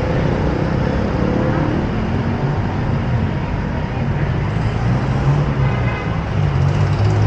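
City street traffic: motor vehicle engines running close by over a steady road-noise hum, with one low engine note growing louder from about five seconds in.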